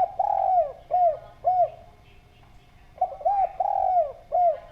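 Spotted dove (derkuku) cooing. There are two phrases of short, arched, hooting coos, each with one longer drawn-out note, and the second phrase comes about three seconds in.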